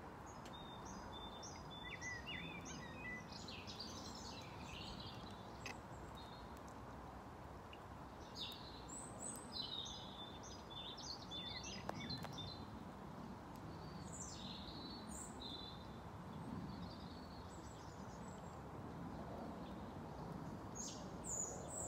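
Songbirds singing in short chirping phrases, coming in several spells, over a faint steady background hiss of outdoor ambience.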